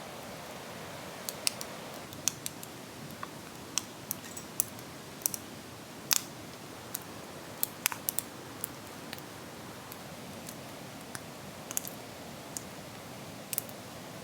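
Campfire crackling: irregular sharp pops and snaps over a steady hiss, the loudest pop about six seconds in.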